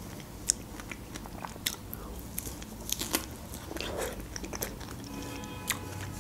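Close-up mouth sounds of a person biting and chewing fresh strawberries, with small wet clicks and smacks scattered through the chewing.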